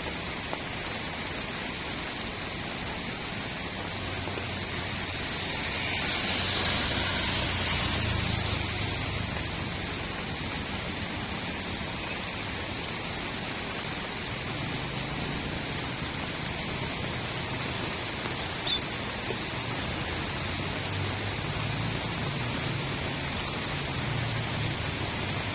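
Steady rain falling on a street: a continuous hiss that swells louder for a few seconds about six seconds in.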